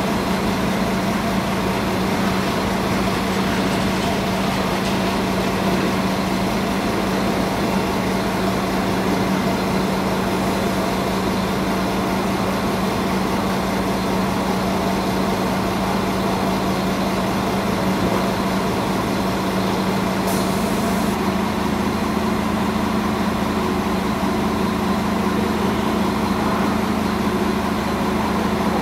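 Steady machine hum of a train standing at the station, a constant low tone with a few fainter steady tones above it. A deeper drone joins about two-thirds of the way through, just after a brief high hiss.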